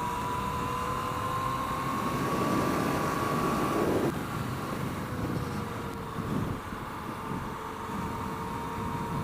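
Motorcycle engine running at steady speed under wind noise, its drone rising slightly in pitch over the first few seconds and easing back after.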